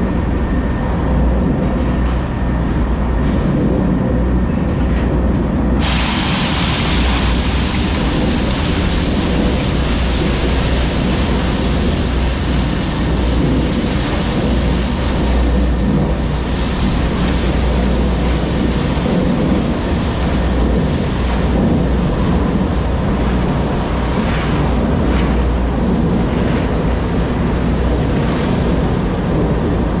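Heavy diesel engine running steadily with a deep rumble. About six seconds in, a broad rushing hiss like wind on the microphone starts suddenly and carries on over it.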